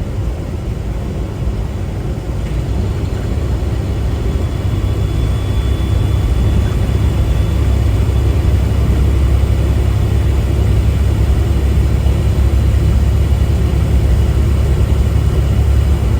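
Semi-truck cab on the road: the diesel engine and road noise make a deep, steady rumble that grows louder over the first several seconds, then holds.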